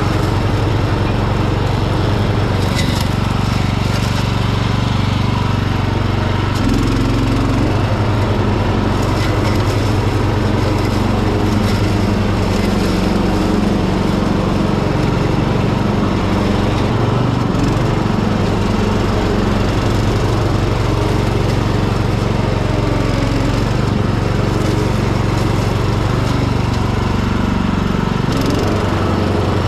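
Hecht ride-on garden tractor's engine running steadily with its mower deck cutting thick overgrown grass. The engine note dips and recovers about three times as it is loaded.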